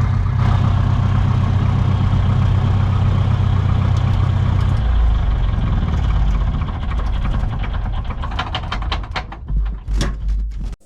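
Cessna 140's piston engine running loud as heard in the cockpit, a steady low drone whose pitch drops about five seconds in as it settles to a lower speed, with a few clicks near the end.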